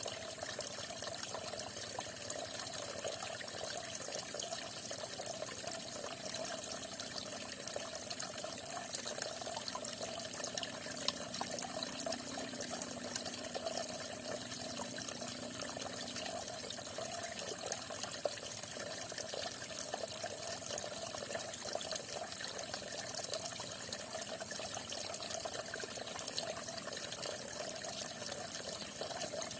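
Falling water splashing steadily, a continuous even rush with fine high splashing.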